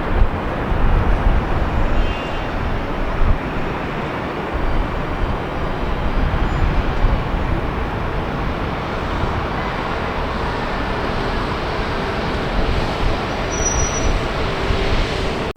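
Steady, loud engine roar with heavy low rumble and gusty buffeting on the microphone, cutting off abruptly at the end.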